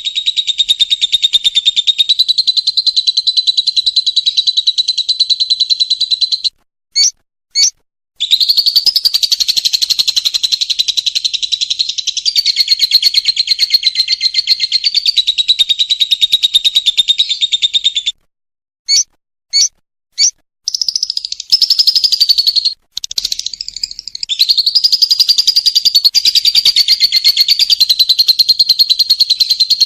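Lovebird in its long 'ngekek' chatter: very fast, unbroken runs of shrill chattering. The first run lasts about six seconds and the second about ten. They are separated by short pauses with two or three brief single chirps, and a further long run starts past the middle.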